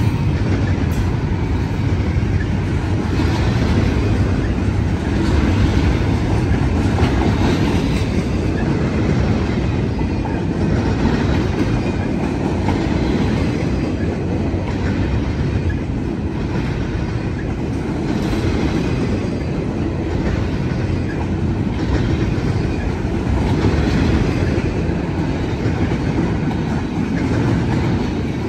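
Cars of an intermodal freight train rolling past: a steady, loud rumble of steel wheels on rail, with a repeated clickety-clack as the wheels cross rail joints.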